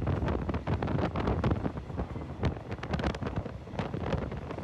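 Wind buffeting the microphone over the running rumble of a moving passenger train, heard from on board, with irregular short knocks and gusts.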